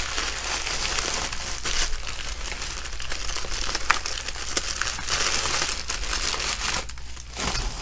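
Plastic packaging crinkling and rustling as a poly mailer is handled and cellophane-wrapped kits are pulled out of it, with many small crackles.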